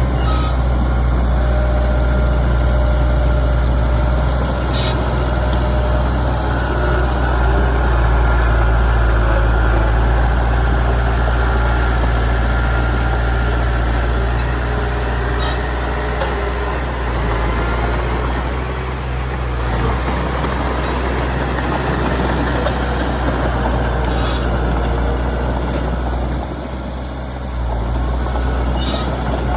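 Komatsu D31PX crawler bulldozer's diesel engine running steadily, with a few brief knocks here and there, including twice about 16 s in.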